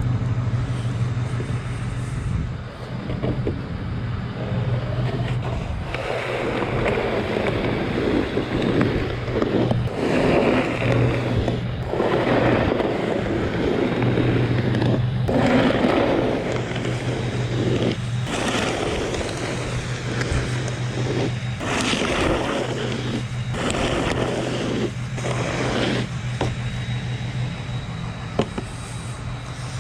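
Repeated rough scraping strokes of snow being cleared, each lasting about a second with short gaps, over the steady low hum of an idling vehicle engine.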